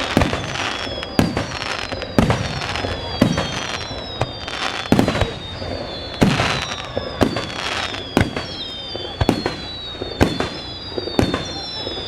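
Fireworks going off in quick succession: sharp bangs about once or twice a second, overlaid with many whistles that fall in pitch.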